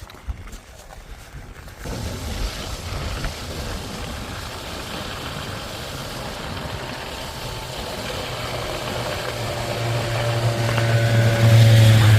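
Wind rushing over the microphone on a downhill bicycle ride, starting suddenly about two seconds in. A motor vehicle's engine hum swells, slightly falling in pitch, and is loudest as it passes near the end.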